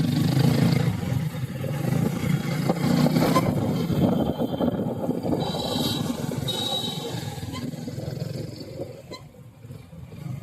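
Motorcycle engine running while riding on the road; it quietens over the last couple of seconds.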